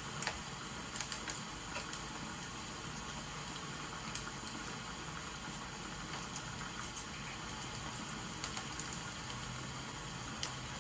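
Steady hiss of rain with scattered sharp crackles of burning firewood. A low hum comes in near the end.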